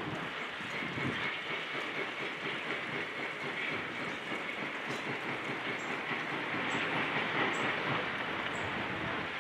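Demolition machinery at work, such as a high-reach excavator tearing down a building: a steady, dense clatter and crunch of breaking debris, with a faint steady high whine over it.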